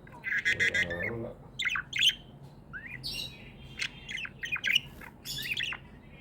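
Pet budgerigars chirping and chattering: a run of quick rising and falling chirps with a few harsher squawks, and a longer buzzy call in the first second.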